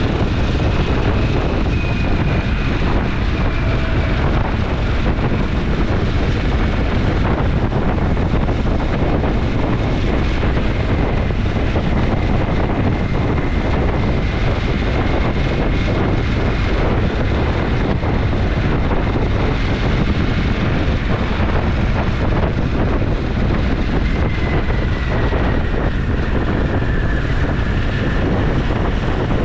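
Motorcycle riding at a steady road speed: continuous engine drone mixed with heavy wind rush on the camera microphone, and a faint high whine that drifts slightly in pitch.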